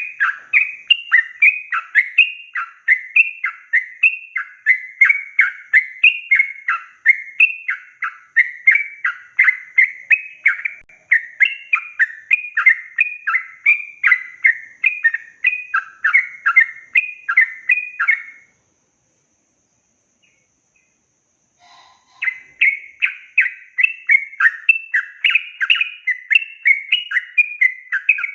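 Sooty-headed bulbul singing a long, rapid run of repeated chattering notes. It breaks off about 18 seconds in, and after a few seconds of silence starts again.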